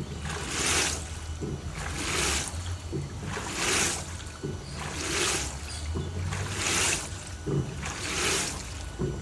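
LG TurboDrum top-load washing machine agitating a full load of bedding: water sloshes in rhythmic surges about every one and a half seconds as the wash action reverses, over a steady low motor hum.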